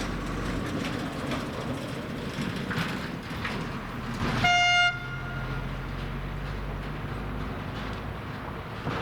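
Train horn giving one short toot about halfway through, over the steady rumble of a train at the station.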